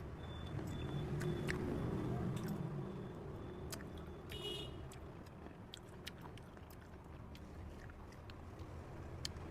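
Close-up mouth sounds of someone eating fresh cherries: biting and chewing, with many small wet clicks and ticks. A steady low rumble runs underneath.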